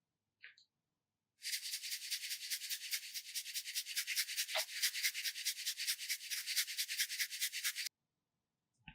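Quick, even scratchy rubbing strokes in a steady rhythm, starting about a second and a half in and stopping abruptly about six seconds later.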